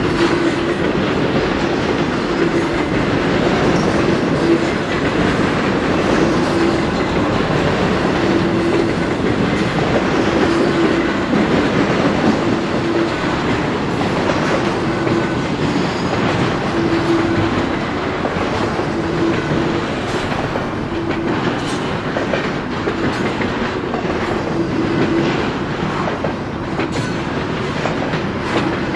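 Intermodal freight train of double-stack container well cars rolling steadily past. Steel wheels on rail make a continuous rumble with clickety-clack.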